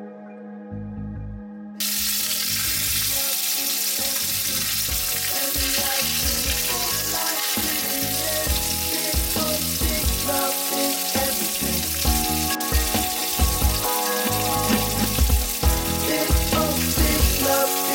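Food frying in hot oil, a steady sizzling hiss that starts suddenly about two seconds in and carries on under background music.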